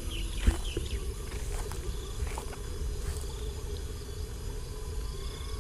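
Insects trilling steadily in the background, with a low rumble on the microphone and a single sharp knock about half a second in.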